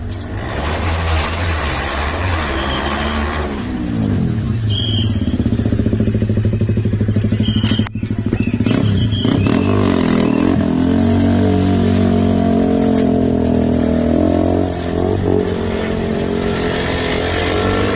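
Single-cylinder KTM motorcycle engine revving, its pitch climbing and falling. It cuts out briefly about halfway, then is held at high revs for several seconds.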